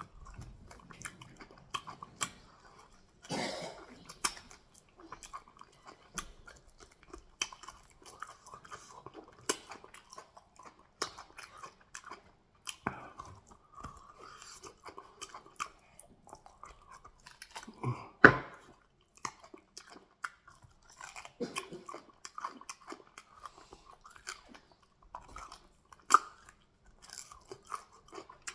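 Close-miked chewing and biting of fufu and goat meat in peanut soup: a steady run of wet mouth clicks, smacks and crunches. A single louder knock comes about 18 seconds in.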